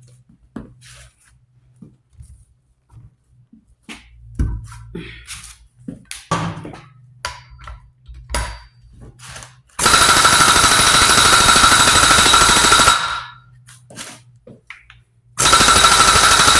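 Light knocks and clinks of metal parts being handled. Then an impact wrench hammering loudly for about three seconds, tightening a nut. It stops, and starts again near the end.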